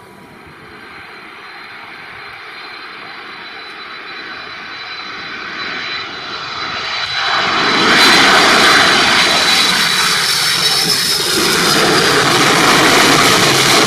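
Boeing 747-400F freighter's four jet engines on landing approach. The sound grows steadily louder as the plane comes in low, reaches full loudness about eight seconds in as it passes overhead, and stays loud from then on, with a thin high whine over the engine noise.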